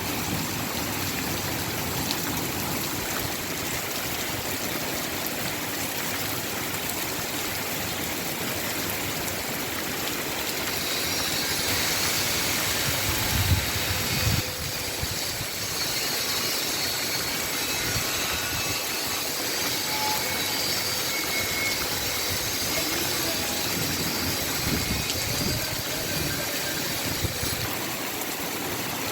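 Heavy rain pouring steadily, with water running on a flooded street. A low rumble rises about halfway through and again later.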